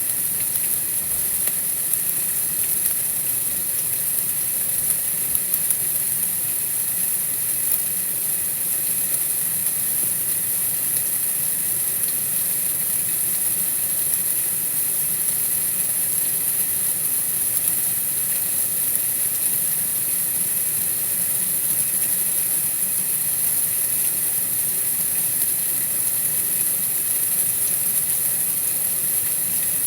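Steady, even outdoor night ambience heard as a continuous hiss with a strong high-pitched band, with a few faint ticks about five seconds in.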